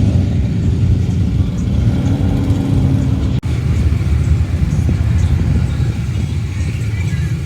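Low, steady rumble of truck engines, with a split-second break a little over three seconds in.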